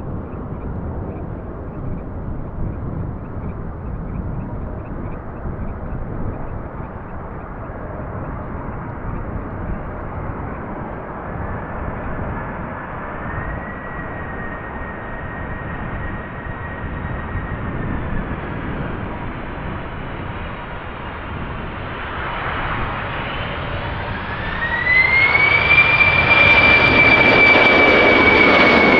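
Lufthansa Boeing 747-400 jet engines heard over low wind rumble, at first a faint, steady distant jet noise. Near the end the engines spool up to go-around thrust: a whine rises in pitch and the jet noise grows suddenly much louder.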